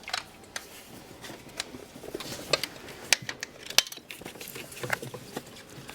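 Irregular metallic clinks and clicks of hand tools and metal parts being handled while working on the truck's engine, the sharpest few about halfway through.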